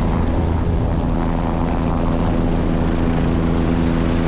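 Helicopter running in flight: a steady engine and rotor drone with several constant low hum tones over a hiss, which brightens a little about a second in.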